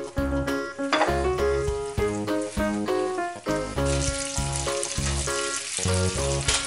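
Background music with a steady beat, and from about four seconds in, a loud sizzle as liquid poured from a stainless stock pot hits a hot frying pan of spaghetti on a gas burner.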